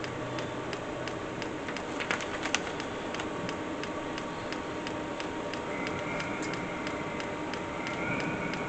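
Diesel air heater running, its fuel pump ticking at a steady rhythm over a steady hum.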